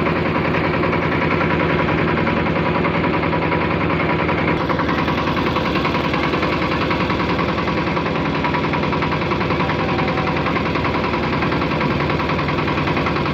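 Motorboat engine running steadily, with a fast, even beat.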